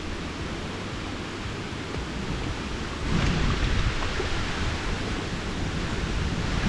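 Strong wind buffeting the microphone as a low rumbling roar, with a stronger gust about three seconds in.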